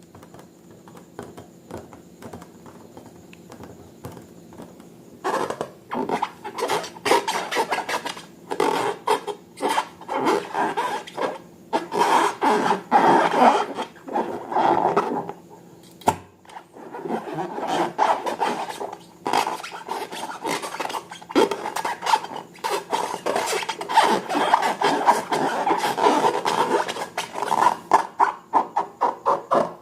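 Rubbing and scraping of hands working balloon and slime materials, with many rapid crackles and clicks. It starts faint and becomes loud and busy about five seconds in.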